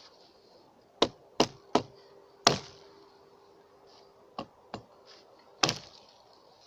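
A series of sharp knocks: four in quick succession, then two fainter ones and a last loud one near the end.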